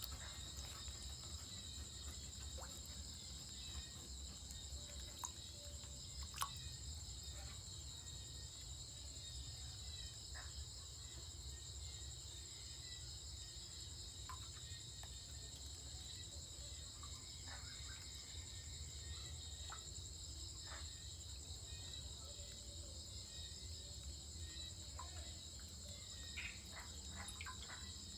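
Steady, high-pitched trilling of an insect chorus, with a low rumble underneath and a few scattered clicks, the sharpest about six seconds in.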